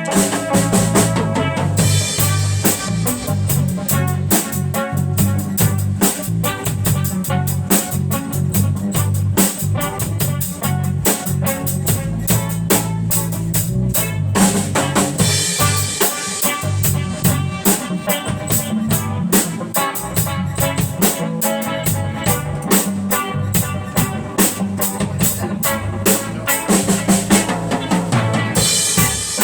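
A small live band playing an instrumental passage: a drum kit keeping a steady, busy beat over a bass guitar line, with guitar.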